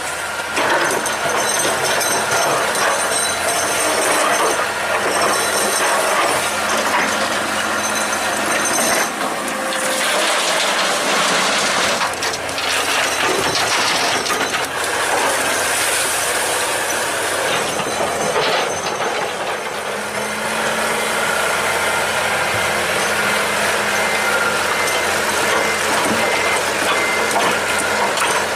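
Excavator at work: engine running under load with frequent metallic knocks and clanks from its steel parts.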